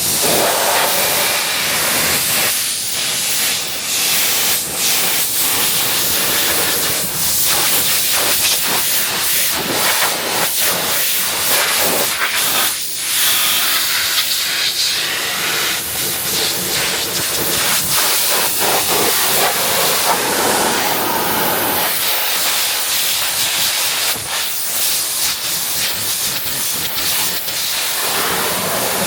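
Pressure washer jet blasting water against a car's bodywork: a loud, steady hiss of spray that flickers as the jet moves over the panels. It starts suddenly at the opening.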